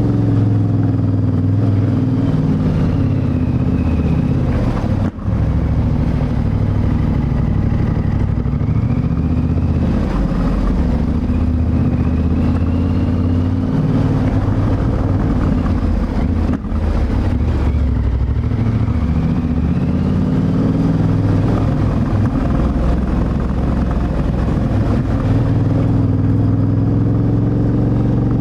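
Yamaha Ténéré 700's 689 cc CP2 parallel-twin engine under way, its pitch rising and falling repeatedly as the rider opens and closes the throttle. The sound drops out briefly twice, about five seconds in and just past the middle.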